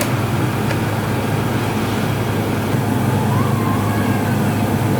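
Honda CB750 motorcycle engine running steadily under a steady rushing noise.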